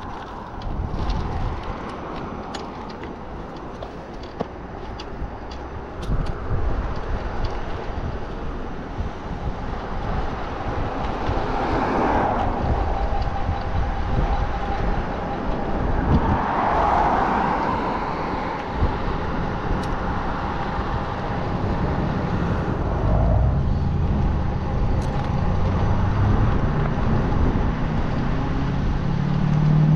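Wind rumbling on the microphone and road noise from a moving e-bike, with louder swells of passing traffic about twelve and seventeen seconds in and a low engine hum building near the end.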